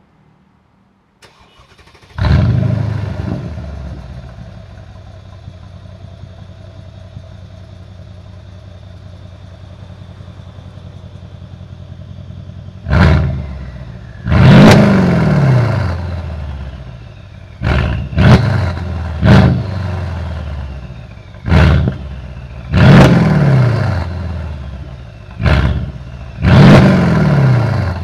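Mercedes-Benz ML63 AMG's 5.5-litre twin-turbo M157 V8, stock apart from new downpipes, being started: it catches with a loud flare about two seconds in and settles to a steady idle. From about halfway it is revved in about nine short, sharp blips, each dropping back to idle.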